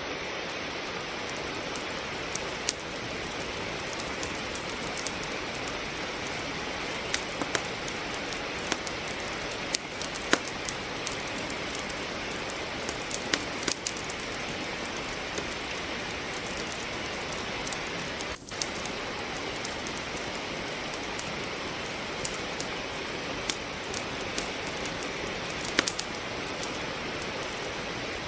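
Steady rain hiss with a wood fire crackling, scattered sharp pops and snaps from the burning logs. The sound briefly drops out about two-thirds of the way through.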